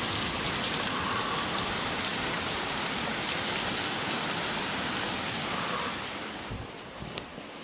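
Heavy rain and hail pelting down in a dense, steady hiss, with a few sharp ticks of hailstones. About six seconds in, the sound drops and turns muffled.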